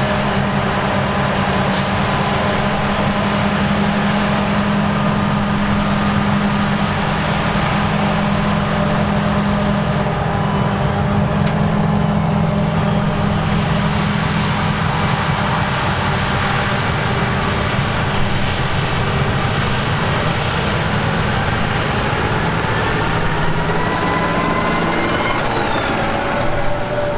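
Diesel engine of heavy harvest machinery running steadily under load, with a mechanical whine over it. Over the second half several of its tones rise in pitch.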